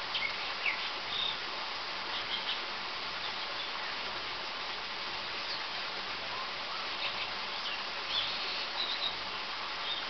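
Short high bird chirps, scattered singly and in small clusters, over a steady hiss.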